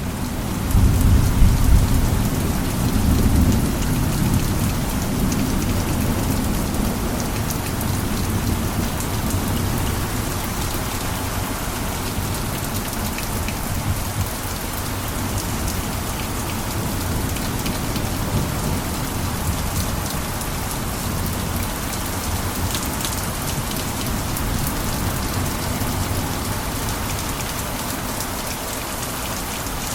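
Steady heavy rain falling on a roof. A low rumble is loudest in the first few seconds and then eases into the steady downpour.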